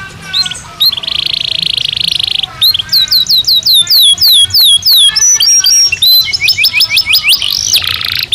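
Belgian canary singing: a buzzy trill in the first couple of seconds, then runs of sharply falling whistled notes at about four a second, quickening toward the end.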